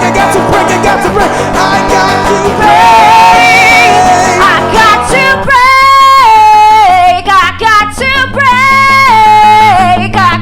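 Acoustic guitar with a singing voice. In the second half the singer holds long, wavering notes that step up and down between pitches.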